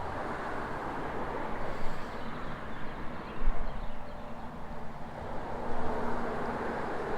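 Steady rushing of a flowing stream, an even wash of water noise.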